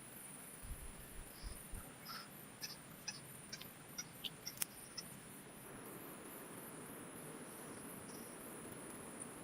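Insects chirping in a steady, high, pulsing trill, with scattered small clicks and ticks in the first half.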